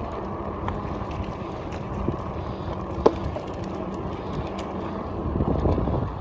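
Wind rushing over the microphone of a moving fat-tire e-bike, a steady low rumble that swells a little near the end. A single sharp click comes about three seconds in.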